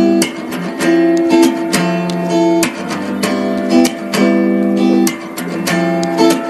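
Background music of a strummed acoustic guitar, chords struck in a steady rhythm.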